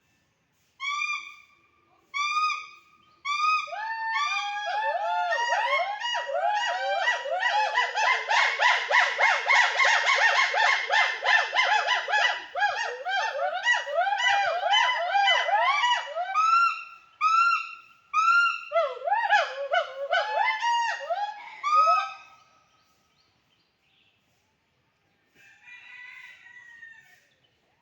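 Loud, ringing animal calls, most likely birds: a string of repeated pitched notes starts as single calls, swells into a dense overlapping chorus of several callers, then thins out and stops about two-thirds of the way through. A faint call follows near the end.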